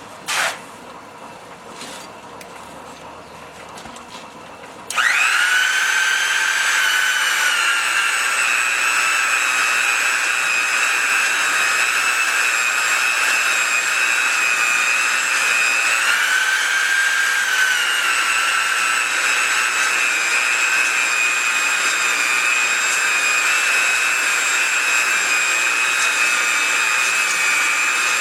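A couple of clicks, then about five seconds in an electric handheld belt polishing machine starts up and runs steadily with a high whine. Its Scotch-Brite belt is polishing the journals of a crankshaft. The pitch lifts briefly about midway, then settles again.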